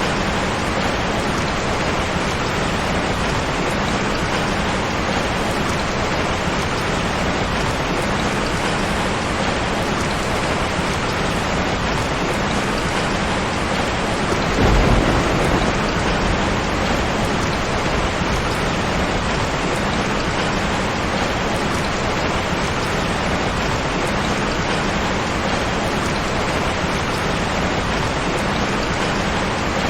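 Steady heavy rainfall, with one short low rumble of thunder about halfway through.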